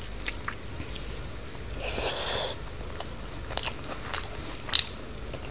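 Close-miked chewing of a soft mouthful of rice and green peas, with wet mouth smacks and a few sharp clicks. There is a short rustling swish about two seconds in.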